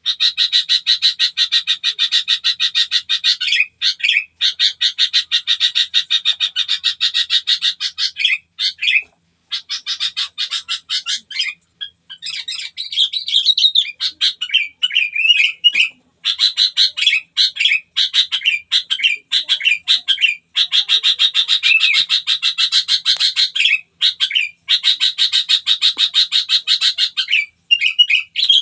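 A songbird singing long runs of rapid, rattling trilled notes, each run lasting several seconds, with short breaks filled by twittering whistles.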